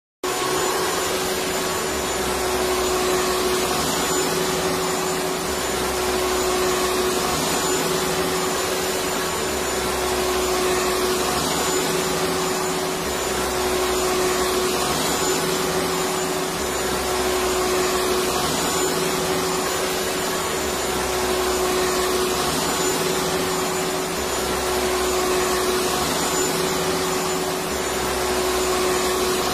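Electric vacuum cleaner motor running continuously: a steady, loud rushing whir with a constant hum, and a low rumble that swells and fades every three to four seconds.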